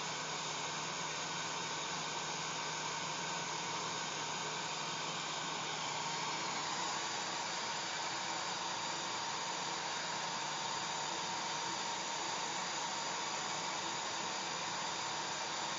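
Hair dryer running steadily: a continuous whoosh of blown air with a low hum and a faint whine. Its tone shifts slightly about six and a half seconds in.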